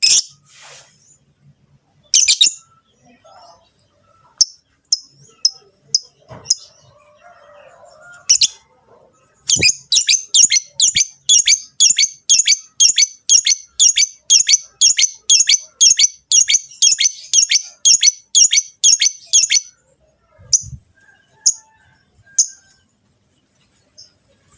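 Lovebirds calling with sharp, high chirps: a few scattered ones, then a fast run of about three chirps a second for some ten seconds, then a few single chirps near the end.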